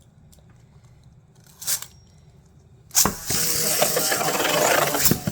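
Plastic Beyblade spinning tops launched about three seconds in: a sudden clack as they land, then a steady whirring scrape of the spinning tops, broken by frequent sharp clicks as they clash. A short rasp comes shortly before the launch.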